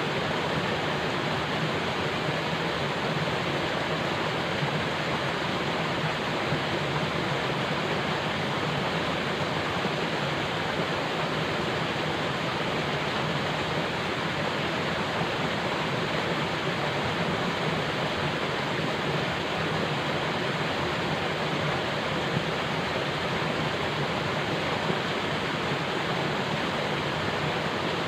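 Falling water rushing steadily and evenly, without change or pause.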